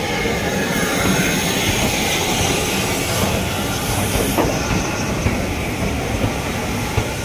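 Train running past close by on a heritage railway line: a loud, steady rumble of wheels on the rails. A thin high wheel squeal comes through in the first few seconds.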